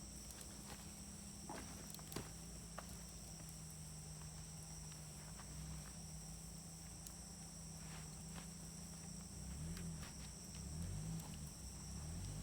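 Wood fire crackling with scattered sharp pops, over a steady high insect trill and a low drone that wavers near the end.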